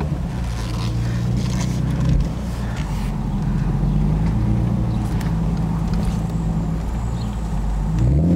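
Exhaust of a 2009 Infiniti G37S's 3.7-litre V6, fitted with an MXP exhaust and Berk test pipes, running at low road speed with a low, steady note. Near the end the pitch rises quickly as the engine picks up revs.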